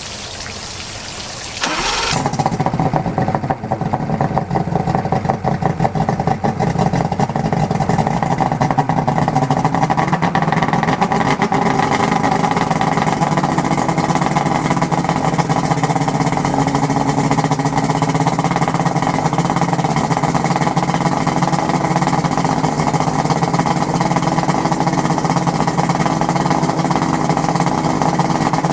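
1997 Evinrude 225 two-stroke V6 outboard starting up about two seconds in and then running steadily, on its first start after a half-hour soak of engine tuner decarbonizer in the carburetors.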